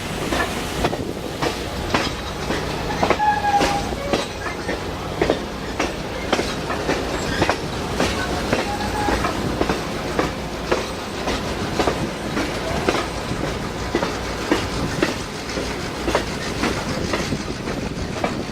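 Passenger train rolling along the track: a steady rumble with a run of sharp clicks as the wheels pass over rail joints, and a couple of brief faint squeals from the wheels.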